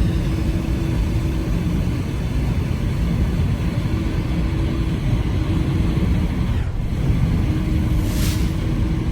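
Wind buffeting the microphone in a snowstorm: a loud, unsteady low rumble. A faint steady hum comes and goes, and there is a brief hiss about eight seconds in.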